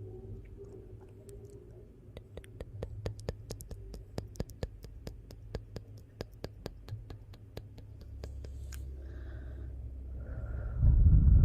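Wood fire in a fireplace crackling, with a quick run of sharp pops and snaps over a steady low rumble. A much louder low rumble sets in near the end.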